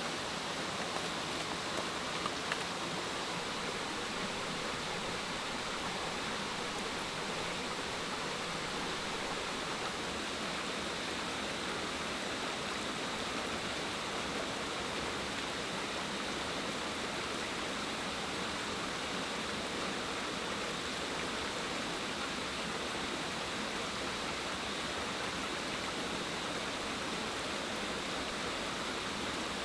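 Steady, even rushing of water, with a few faint ticks in the first few seconds.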